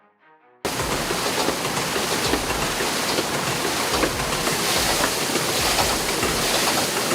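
Rushing water, a loud steady hiss with small crackles, cutting in suddenly about half a second in.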